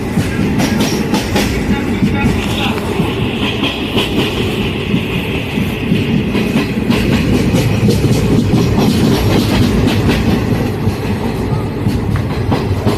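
Passenger train running along the track: a steady rumble with the clickety-clack of wheels over rail joints, and a high wheel squeal for a few seconds near the start.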